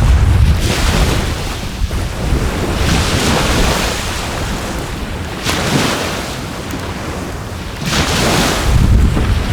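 Surf washing onto the shore, with four waves swelling and fading about every two and a half seconds, over a steady low rumble of wind on the microphone.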